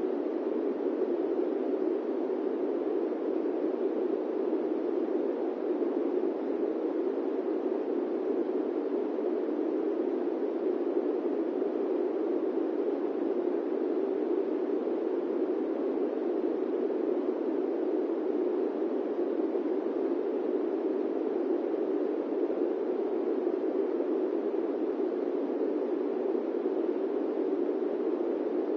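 Steady airplane-cabin white noise: an even, unbroken rush pitched in the low middle, with no deep rumble and no high hiss, holding constant throughout.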